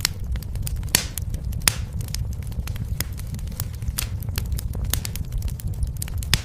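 Fire in a fireplace crackling, with frequent irregular sharp pops over a steady low rumble; the strongest pops come about one and one and a half seconds in.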